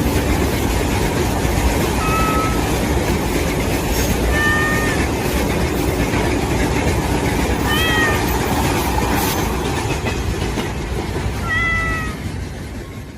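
A cat meowing: four short, high calls a few seconds apart, over a steady noisy background. The sound fades away near the end.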